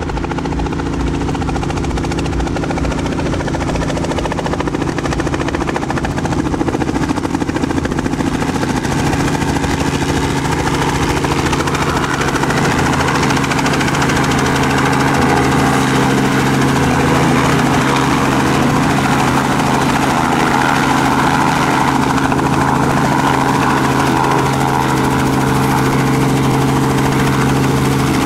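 Robinson R44 Raven helicopter running, its six-cylinder Lycoming piston engine and rotor making a steady drone. The pitch steps up slightly and the sound grows a little louder about a third of the way in.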